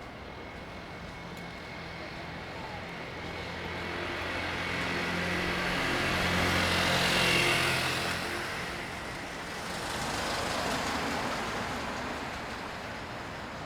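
A road vehicle passes close by, its engine hum and tyre noise building slowly to a peak about seven seconds in and then fading, followed by a second, quieter vehicle passing around ten seconds in.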